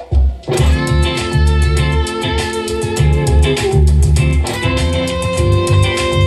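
Gibson Les Paul Studio Shred electric guitar, played through a Boss GT-8 processor, plays long held notes over a backing track of drums and bass. The full band comes in about half a second in, after a few drum hits.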